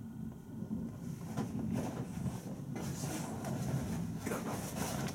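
Thunderstorm outdoors: a low, rolling rumble that swells about a second in, with irregular gusty hissing over it.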